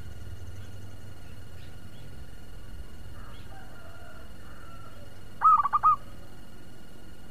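A bird calling: a loud, quick run of four or five short notes lasting under a second, about five and a half seconds in, over faint chirps and a low steady rumble.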